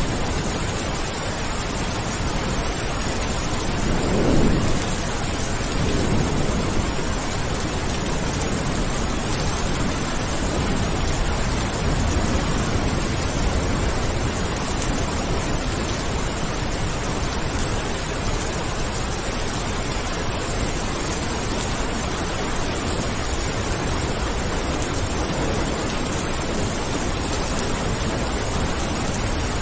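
Steady rain with a rumble of thunder about four seconds in, the loudest moment, and softer rumbles following a couple of times.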